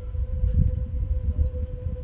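Outdoor tornado warning siren holding one steady tone, over a louder, uneven low rumble.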